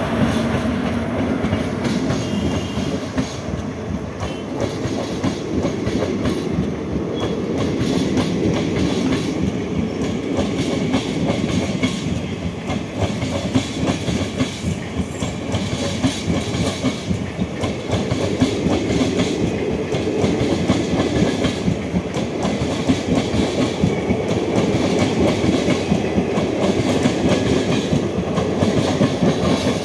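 Passenger coaches of an express train rolling past on the track, their wheels clattering steadily and continuously over the rails.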